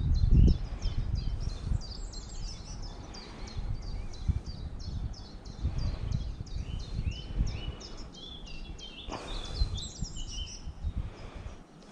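Small songbirds chirping steadily in quick, high repeated notes, several a second, over a low rumble of wind on the microphone.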